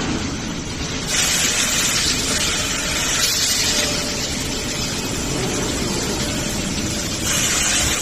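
Production-line machinery running steadily, with stretches of loud hiss over a low rumble, the hiss starting about a second in and again near the end.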